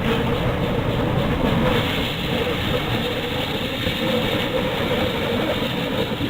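Heritage railway train running on the line, a steady rolling rail noise without a clear beat.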